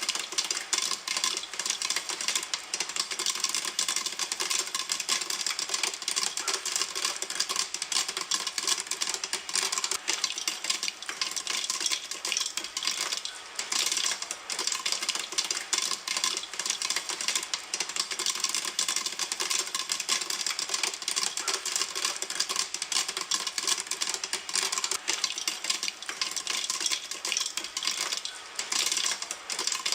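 Popcorn kernels popping in a pan: a dense, continuous patter of sharp pops at a steady rate.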